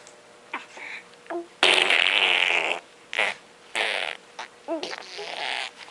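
Fart-like noises: one loud, rough burst lasting about a second, followed by several shorter ones.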